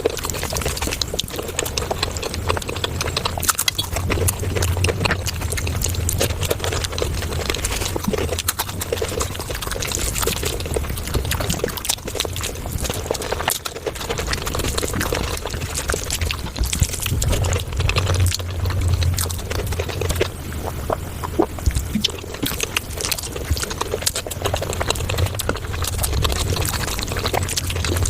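Close-miked eating sounds of palak paneer played back sped up: a dense, unbroken stream of rapid wet chewing and mouth-smacking clicks.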